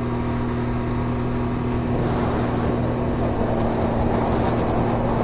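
Can-Am Ryker Rally Edition's three-cylinder Rotax engine running steadily under way, with road and wind noise that grow a little louder about two seconds in.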